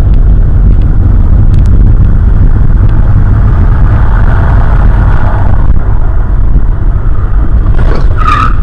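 Loud, steady low rumble of a car driving, picked up by a dashcam mounted inside it. A short, sharp high-pitched sound comes near the end.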